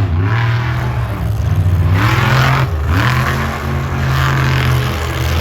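Large monster truck engine running hard and revving, its pitch climbing several times as the throttle is opened and backing off in between.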